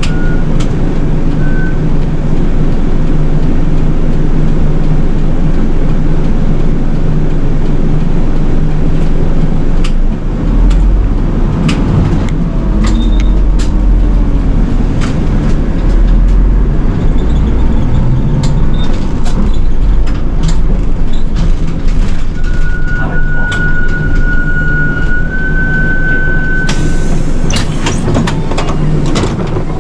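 City bus running, heard inside the cabin: a steady low engine drone with frequent clicks and rattles, the drone growing deeper and stronger for several seconds in the middle as the bus pulls under power. A steady high beep sounds for about four seconds near the end.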